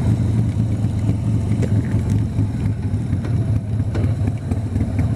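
Harley-Davidson Sportster V-twin engine running steadily while riding at road speed.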